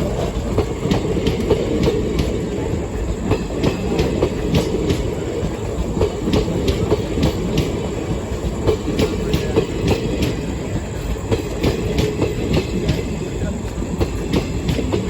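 Indian Railways passenger train running steadily with a loud rumble, its wheels clicking again and again over rail joints.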